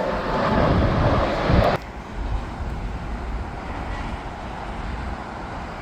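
Jet airliner engine noise, loud for the first two seconds, then cut off abruptly. A quieter steady low rumble follows.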